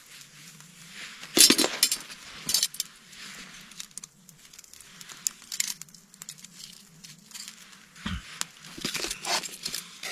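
Irregular crinkling and light clinking of food wrapping and dishes being handled during a meal, in short uneven bursts with the loudest about a second and a half in.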